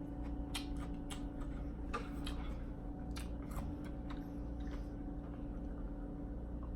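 A person chewing a mouthful of bibimbap close to the microphone, with a scatter of short wet mouth clicks, most of them in the first four seconds. A faint steady hum runs underneath.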